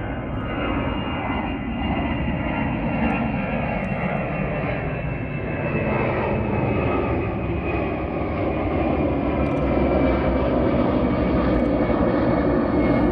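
Engines of an airliner running at power, a loud, steady rush with a thin whine on top, growing louder over the course of the sound.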